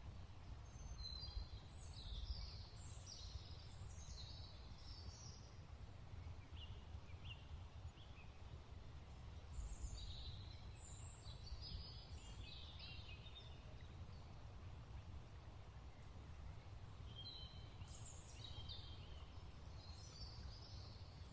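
Faint birdsong: three bouts of quick chirping, twittering phrases, with a steady low rumble underneath.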